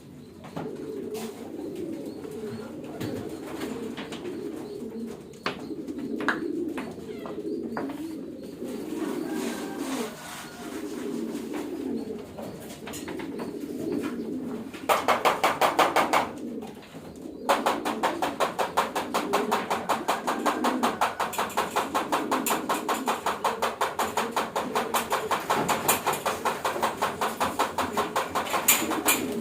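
Homing pigeons cooing steadily in a loft. About halfway in, a fast, even run of loud clicks starts, several a second; it stops briefly and then keeps going.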